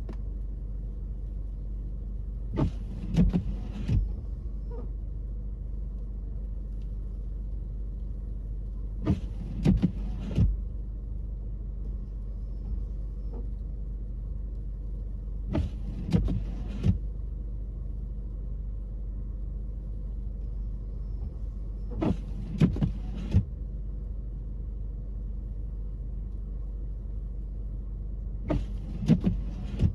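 Car cabin hum while driving, with the windshield wipers on an intermittent setting: five passes about six and a half seconds apart, each a short scrape across the snowy windshield with a click at either end.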